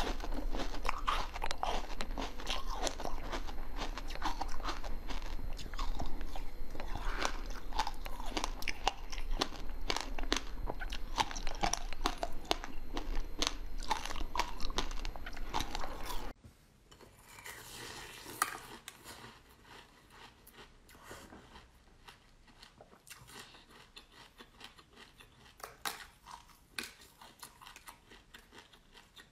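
Close-miked biting and chewing of crunchy frozen sweet balls, a dense run of crisp crunches. About 16 seconds in it cuts abruptly to a much quieter stretch of soft chewing with only occasional clicks.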